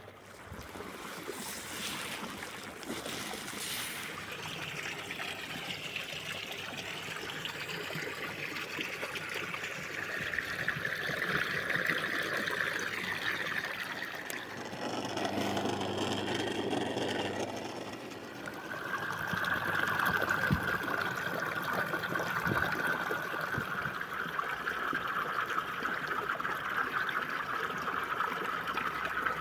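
Water trickling and streaming around a pool vacuum cleaner at work, a steady watery rush. About halfway through it turns lower and fuller for a few seconds, then settles into a steady hiss.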